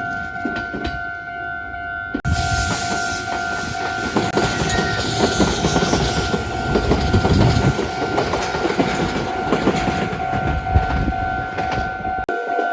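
Railway level crossing warning bell ringing steadily while a Meitetsu electric train passes over the crossing. The train's rumble and wheel clatter swell loudly about two seconds in, then drop away abruptly near the end, leaving the bell.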